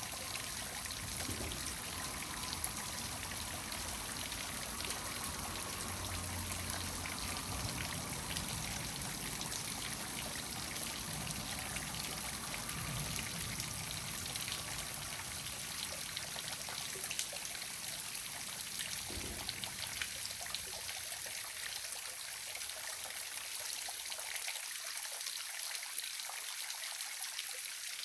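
Small waterfall: water falling, splashing and trickling in a steady hiss with no break.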